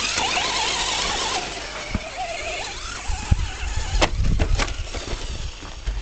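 Electric motor of a radio-controlled 4x4 short-course truck whining, its pitch rising and falling with the throttle, over a grainy rush of tyres on dirt. A few sharp knocks come about four seconds in.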